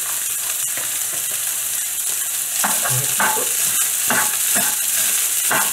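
Rice, mixed vegetables and ham sizzling in a hot non-stick wok on medium-high heat, with a spoon scraping and tossing them. The steady frying hiss runs throughout. From about two and a half seconds in, it is broken by a series of quick stirring strokes.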